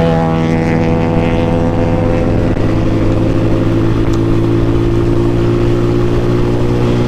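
Benelli motorcycle engine running at a steady cruising pitch while the bike is ridden along the highway.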